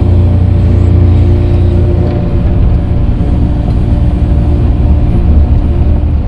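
Earthmoving machine's engine running steadily while grading dirt, loud and even with slight swells in level.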